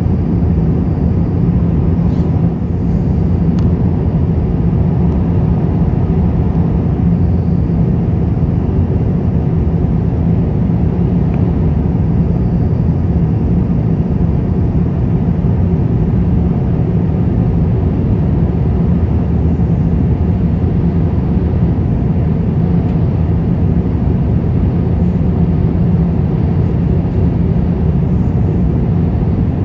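Steady low rumble of an Airbus A350-1000 in flight, its engine and airflow noise heard inside the cabin.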